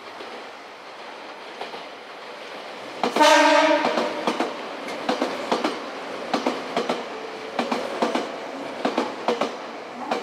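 An electric train's horn sounds once for under a second, about three seconds in, then the wheels clatter over rail joints in quick repeated clicks, often in pairs, as a Nankai Koya Line train passes through the station.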